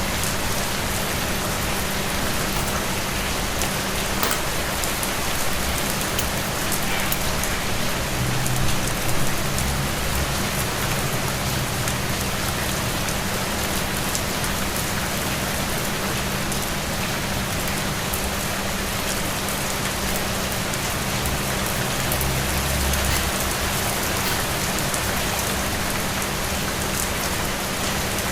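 Steady rain falling, an even hiss of drops on surfaces, with a steady low hum underneath. Two brief low rumbles rise out of it, one about a third of the way in and another later on.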